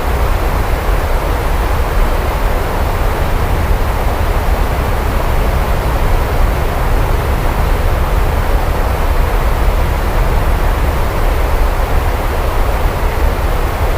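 Steady rain falling, an even hiss with a constant low rumble beneath it and no separate claps or drops standing out.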